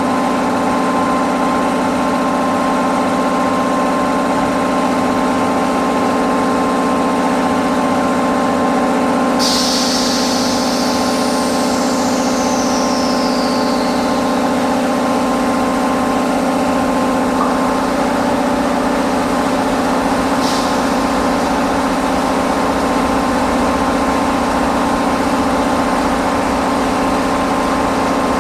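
Steady electric machinery hum with several held tones. About a third of the way through a sudden hiss starts, with a whistle falling in pitch, and a second short hiss comes about two-thirds of the way through.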